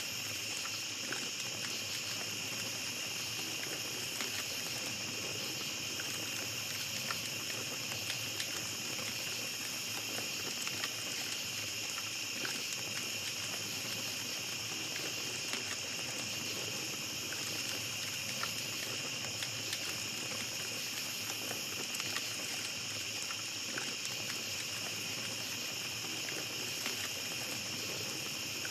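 Steady chorus of night insects, an unbroken high-pitched trilling, with small scattered crackles and pops from a campfire.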